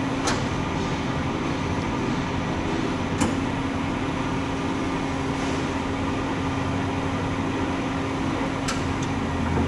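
Amada H600 bandsaw running with a steady mechanical hum, and three short sharp clicks about a third of a second in, about three seconds in and near the end.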